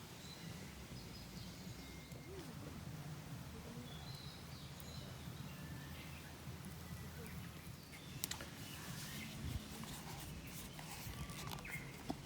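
Outdoor ambience: wind rumbling on the microphone with faint bird chirps, and a few light clicks in the last few seconds.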